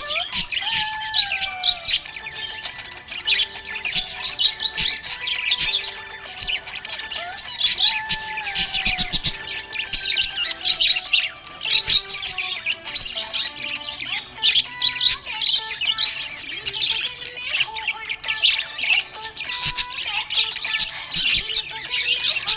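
Budgerigars (budgies) chirping and squawking in quick, overlapping chatter that never stops.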